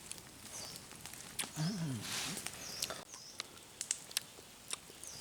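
Short high chirps, likely a bird, repeating every second or so, over scattered sharp clicks and a brief patch of rustling about two seconds in. A short low voice-like sound rises and falls near the same moment.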